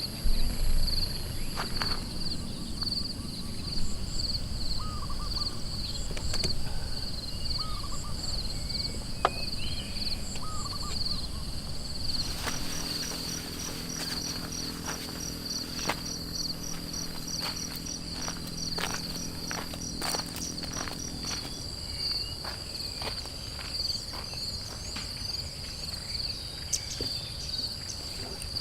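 A forest insect chorus, cricket-like, trilling steadily and high-pitched throughout. Scattered short clicks and crackles sound over it, and a low steady hum joins for several seconds in the middle.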